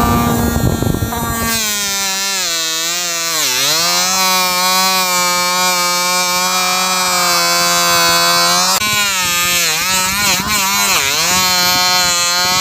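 Small motor of a miniature DIY tractor or grass-cutter model, starting with a rough clatter and then settling into a steady whine. Its pitch sags briefly a few seconds in and again near the end, with a wobble before the second sag.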